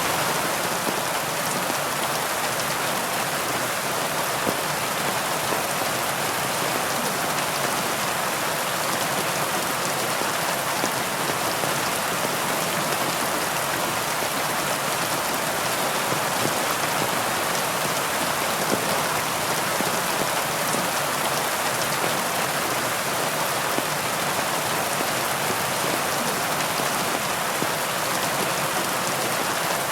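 Heavy rain falling steadily, a dense even hiss of drops on surfaces with fine patter.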